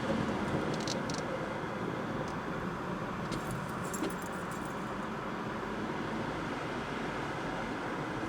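Steady car road and engine noise heard from inside the cabin, with keys jingling lightly a few times, about a second in and again around three to four seconds in.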